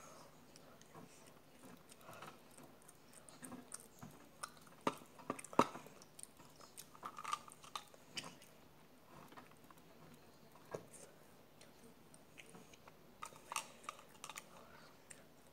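A person chewing and biting snack food close to the microphone, with scattered crackles and clicks; the loudest come in a cluster about five seconds in and again near the end.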